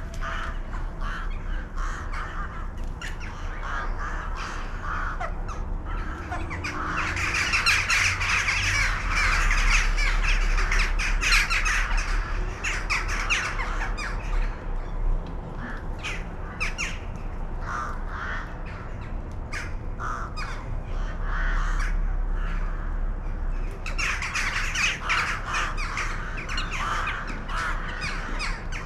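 A flock of crows cawing, many harsh calls overlapping. The calls thicken into a dense chorus twice, over a low steady rumble.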